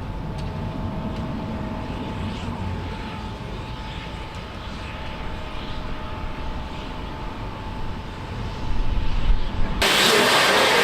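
Steady low rumble with faint steady whining tones, typical of a train running. About a second before the end it gives way abruptly to a loud rushing hiss.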